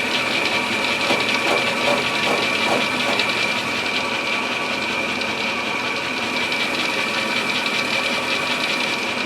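Milling machine running steadily with a constant high whine as its table carries the cutter across a walnut gunstock.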